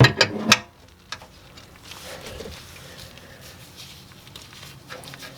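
A quick run of sharp metallic clicks and knocks in the first half-second, from a wrench working on the Honda Accord's oil-pan drain plug.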